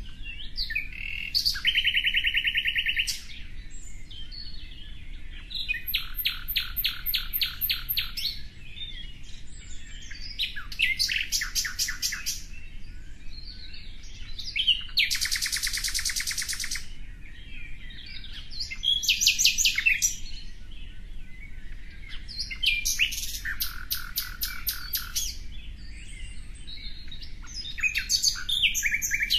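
A bird singing about seven short, high phrases, each a rapid run of repeated notes lasting a second or two, with pauses of a couple of seconds between them.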